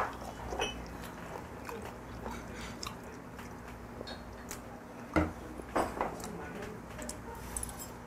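Close-miked chewing of a mouthful of fermented skate samhap, with small wet mouth clicks throughout. A few louder knocks come about five to six seconds in.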